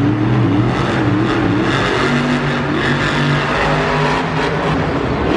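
Monster truck's supercharged V8 engine revving, its pitch rising and falling, over a loud, steady din.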